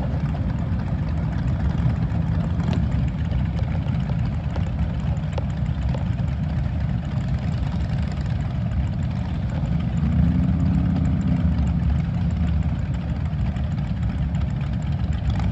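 Several motorcycle engines idling together with a steady low rumble. The sound swells briefly about ten seconds in.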